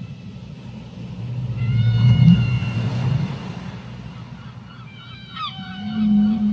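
Whale calls under water: a long held moan with overtones about two seconds in, then short sweeping calls and a low moan near the end, over a steady low rumble.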